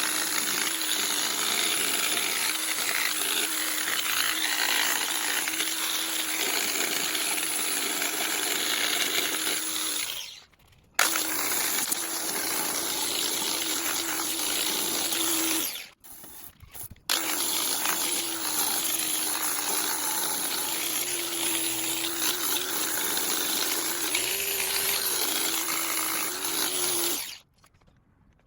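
A small power tool runs in three long stretches, stopping briefly twice, while working on the steel fire pit.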